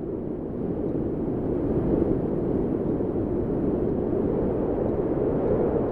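Recorded wind blowing as a steady, low rushing noise that swells gently.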